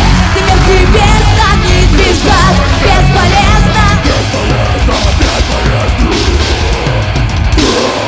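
Live rock band playing loud, heavy music, with a singer's voice wavering over dense guitars and drums; the music stops abruptly at the very end.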